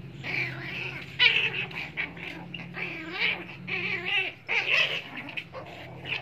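Puppies play-fighting: a rapid string of short yips, whines and snappy noisy bursts, some with wavering pitch.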